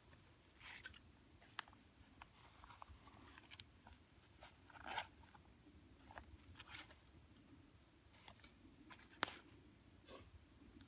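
Faint, scattered clicks, taps and short rustles, about a dozen in all, with a sharper click about nine seconds in.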